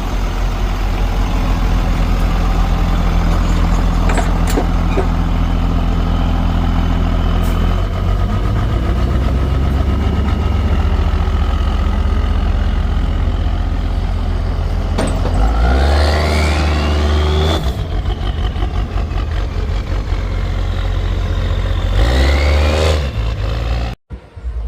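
Pickup truck engine running loud under a pull. It settles lower about eight seconds in, then revs up with a rising whine twice, around the middle and again near the end, before the sound cuts off suddenly.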